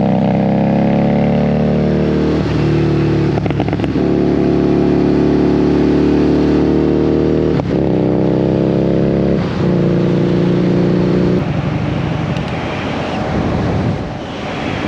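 Harley-Davidson Street Rod 750's V-twin engine pulling under way, its pitch easing up between brief breaks where it shifts gear. About 11 seconds in the engine note drops away, leaving wind noise.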